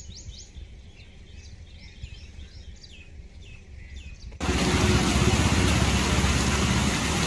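Birds calling with repeated quick downward chirps over a low, steady rumble; about four seconds in, this cuts off suddenly and heavy rain takes over, an even, loud hiss of downpour.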